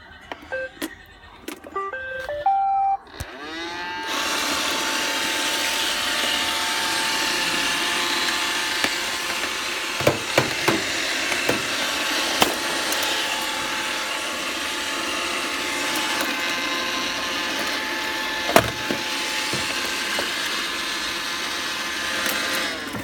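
iRobot Roomba robot vacuum giving a quick run of electronic beeps at different pitches. Its motors then spin up with a rising whine and run with a steady whir, with several sharp knocks midway through. The motors begin winding down at the very end.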